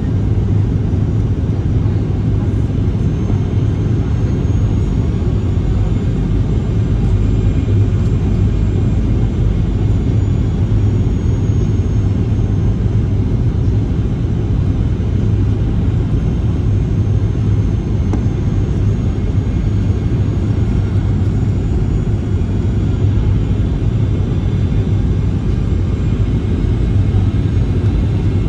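Boeing 737-800's CFM56 jet engines running: a steady low rumble with a faint high whine drifting in and out above it.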